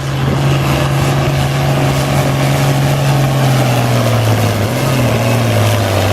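International Harvester 966 tractor engine running hard as it pulls a weight sled. It holds a steady pitch, then drops a little about five seconds in as the load comes on.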